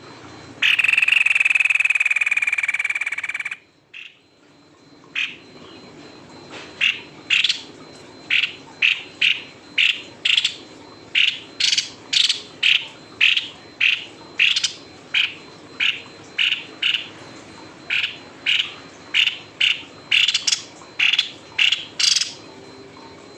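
A white-necked babbler calling in a long run of short, sharp notes, about two a second. A loud steady sound of about three seconds comes before it near the start.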